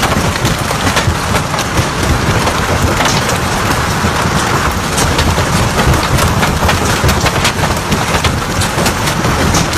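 Heavy storm downpour pounding on surfaces: a dense, steady hiss of precipitation peppered with many sharp little impacts, over a deep rumble.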